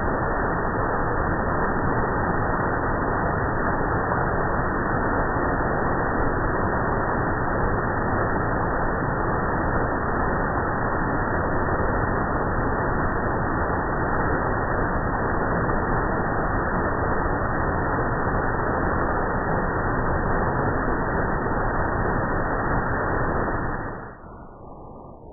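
Waterfall: a steady, dense rush of falling water, muffled with no high end, dropping sharply in level about a second before the end.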